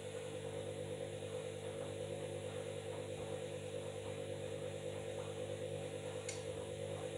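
Washing machine running, a steady motor hum of several tones with a slight regular pulsing, and a faint click about six seconds in.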